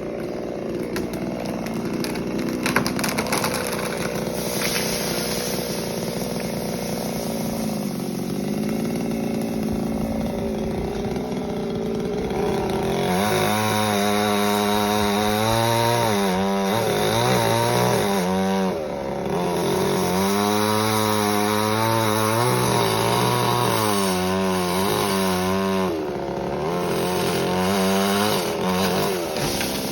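Chainsaw running steadily at first. About halfway through it is throttled up and cutting into the Manila tamarind tree's wood, its pitch wavering up and down again and again as the engine loads and frees.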